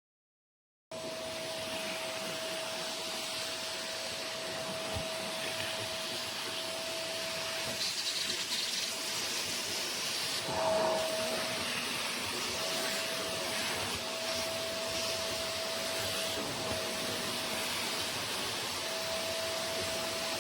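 A carpet spot cleaner's suction motor running steadily: a rushing hiss with a thin whine that drops out and comes back several times.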